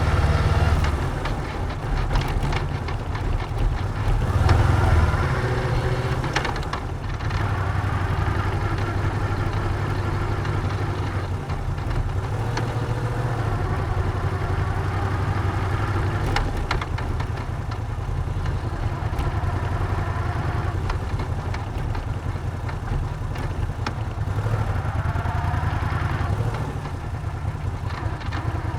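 Moto Guzzi V7's air-cooled transverse V-twin running as the bike is ridden, its revs rising and falling with the throttle. Its pitch climbs in a couple of gear-length rises, most clearly about 25 seconds in.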